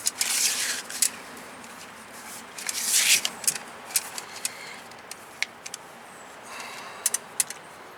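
A 1/4-inch metal brake line being bent straight by hand: two short scraping rushes, one right at the start and one about three seconds in, with scattered light clicks and ticks of the tubing.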